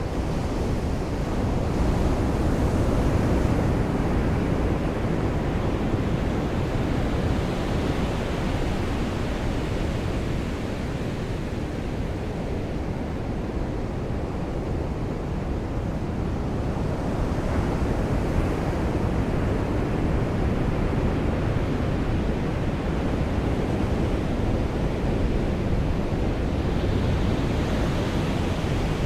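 Sea surf washing onto a beach: a steady rushing noise that swells and eases every several seconds.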